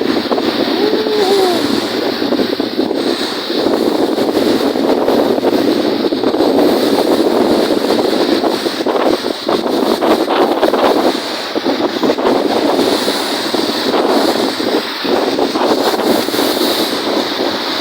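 Strong wind on the microphone over choppy lake waves: a loud, steady rush. About a second in, a short rising-and-falling whistle sounds through it.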